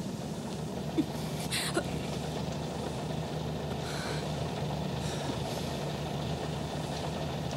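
Vintage car's engine idling steadily. A sharp click about a second in and a short rustle half a second later.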